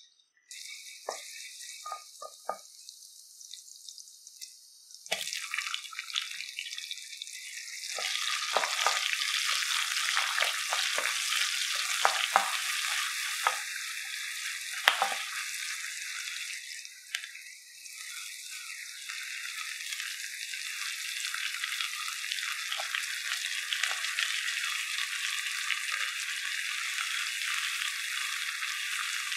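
Garlic and then sliced onions frying in hot oil in a wok: a steady sizzle that grows louder about five and eight seconds in. A metal spatula clicks and scrapes against the wok during stirring through the first half. The sizzle dips briefly past the middle and then picks up again.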